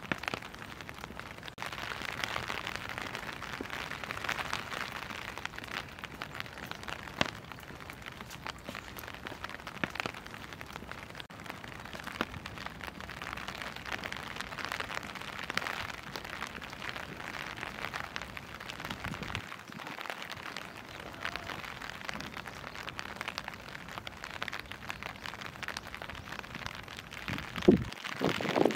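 Steady rain falling, with scattered sharp drip taps and a louder knock near the end.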